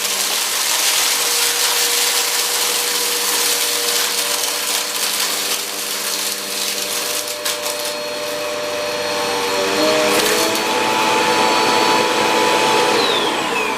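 Value brand upright vacuum cleaner running while sucking up heavy debris such as coffee grounds, sawdust, glass, screws and cat litter: a steady motor hum under loud, dense rattling and crackling of particles hitting the nozzle and hose. Near the end a whine falls steadily in pitch.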